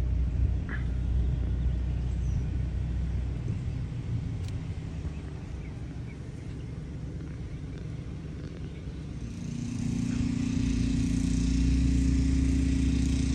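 Motor vehicle running, a low rumble that eases off around the middle and then grows louder again from about nine seconds in, with a steady hum and a rising hiss.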